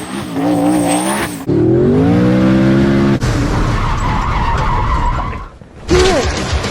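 V8 race car engine revving, its pitch climbing over a second or so, then tyres spinning and squealing in a burnout for a couple of seconds. The sounds change abruptly, as if from quick cuts.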